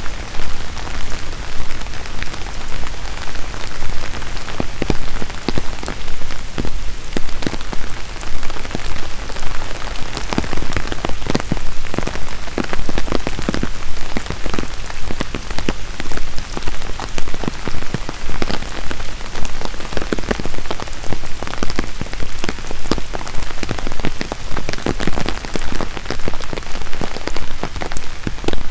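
Steady rain falling, with many sharp, distinct drop hits close by over a continuous hiss.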